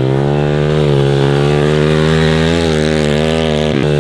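MRF 140 TTR pitbike's single-cylinder four-stroke engine running hard at fairly steady revs, with a brief drop in pitch near the end as the throttle is eased.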